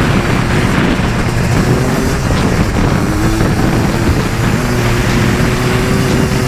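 ATV engine running under way, its pitch climbing slowly and steadily, with wind noise over it.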